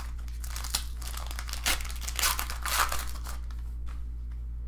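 Trading card pack wrapper crinkling and tearing as it is opened by hand, in irregular rustles that are strongest in the first three seconds and then die down. A steady low hum runs underneath.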